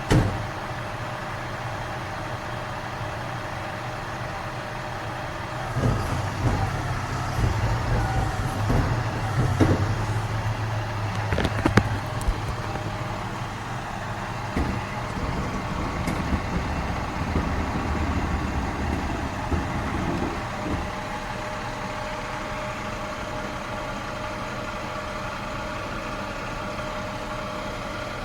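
Garbage truck engine running steadily. For about fifteen seconds in the middle the rumble grows louder and busier, with several sharp knocks and clanks, then settles back to the steady hum.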